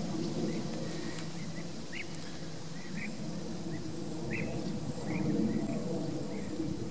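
Short bird chirps, a dozen or more scattered irregularly, over a steady low background rumble.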